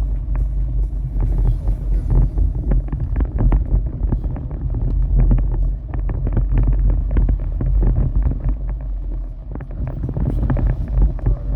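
Storm wind buffeting the microphone: a heavy, continuous low rumble with many sharp taps and crackles.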